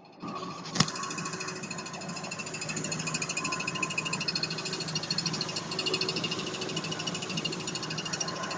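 Great Wall Hover H3 engine running with a high, fast-chirping whistle from the clutch release bearing. A single sharp click about a second in.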